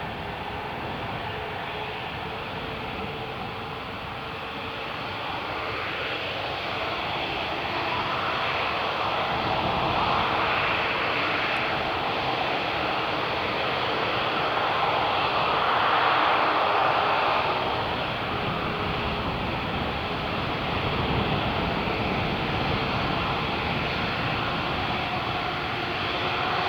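Jet airliner engines running with a steady roar that swells to its loudest about two-thirds of the way in, eases, then rises again near the end.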